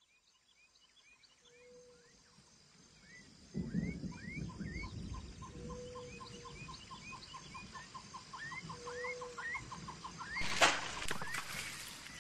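Birds calling: many short rising chirps, a rapid trill of about six even notes a second, and three short held whistles, over a low rumble that comes in about three and a half seconds in; the sound fades in at the start. A loud burst of rustling noise comes near the end.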